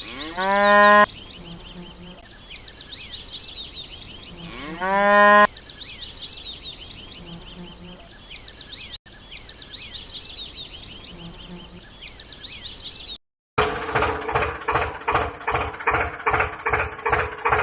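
A cow mooing twice, each moo about a second long and rising in pitch, over a background of birds chirping. After a brief gap near the end, a louder rhythmic pulsing sound begins, about three beats a second.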